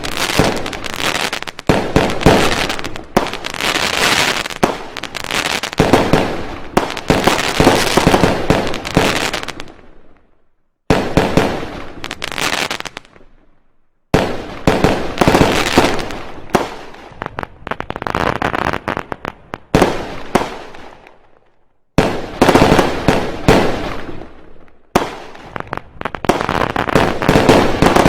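Fireworks going off: dense volleys of rapid bangs and crackles in stretches of several seconds, which stop abruptly and start again several times.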